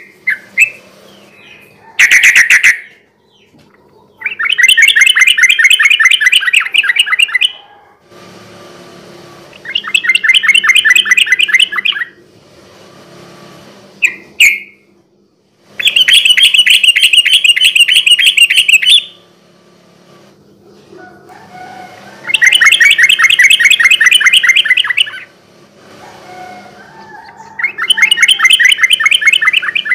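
Yellow-vented bulbul (trucukan) singing in about five loud bouts of fast, chattering repeated notes, each two to three seconds long with short pauses between, plus a couple of short single calls.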